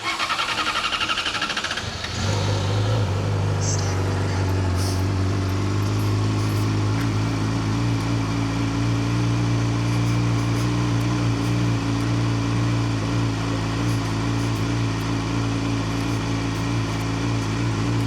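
Yamaha YZF-R6 inline-four with an Akrapovic slip-on exhaust being started: about two seconds of cranking, then it catches and idles steadily.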